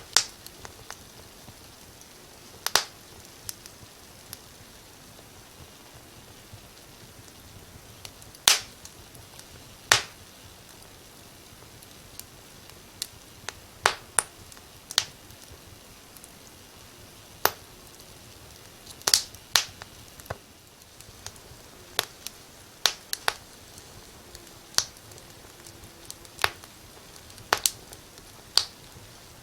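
Fire in a fireplace crackling: sharp irregular pops, sometimes singly and sometimes two or three in quick succession, over a faint steady hiss.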